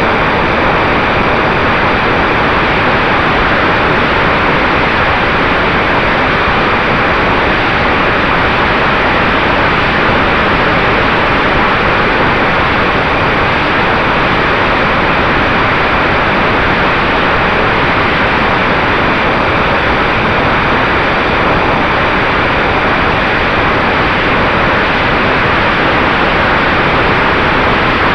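Steady rush of wind noise on the microphone, loud and unchanging, with a faint steady tone underneath.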